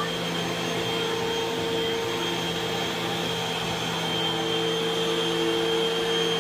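Vacuum cleaner running steadily, its motor holding an even whine.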